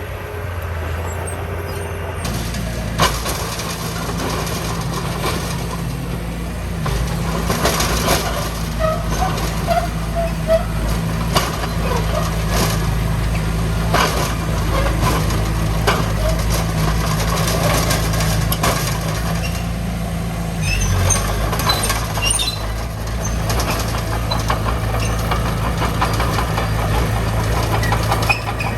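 Diesel engine of heavy earthmoving machinery running steadily under load, with scattered metallic clanks and squeaks.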